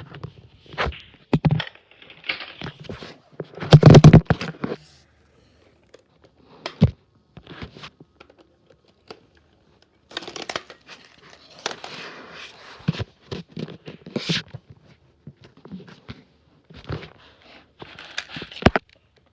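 Irregular crinkling, rustling and knocking handling noises, with sharp clicks here and there and a loud burst about four seconds in.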